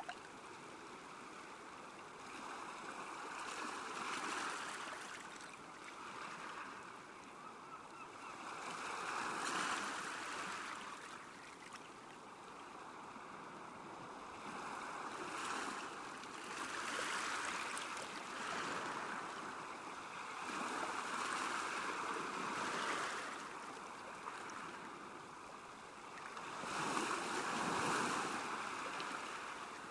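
Small waves washing against a lakeshore, the wash swelling and fading every few seconds, with the loudest surge near the end.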